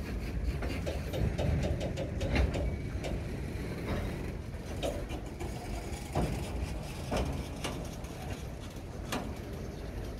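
Loaded hopper cars rolling slowly on the rails as they are shoved from behind: a low rumble of steel wheels on track, with irregular sharp clicks and knocks from the wheels and trucks.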